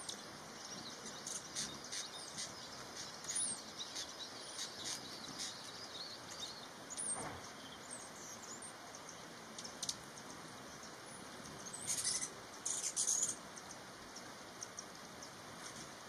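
Small birds chirping: many short, high chirps and twitters over a faint steady hiss, with a louder flurry of calls about twelve to thirteen seconds in.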